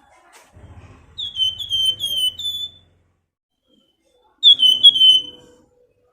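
Flamboyan songbird calling in its 'nyiul' style: two phrases of clear whistled notes, each note sliding quickly downward, about four notes to a phrase, with a pause of over a second between the phrases.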